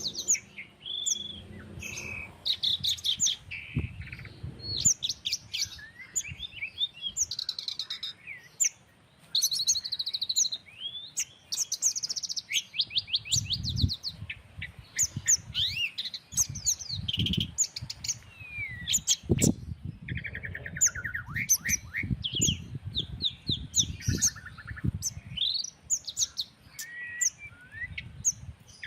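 Several songbirds chirping and singing over one another, with rapid trills and short whistled notes, with low rumbles of breeze at times.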